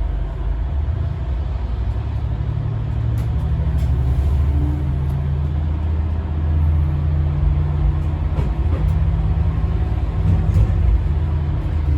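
Diesel railcar's engine running as the train travels, a steady low drone heard from the driver's cab, with a few light clicks.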